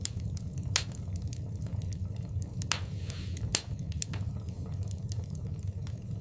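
Wood fire burning in a fireplace: irregular crackles and sharp pops over a steady low rumble, with two louder pops about a second in and midway.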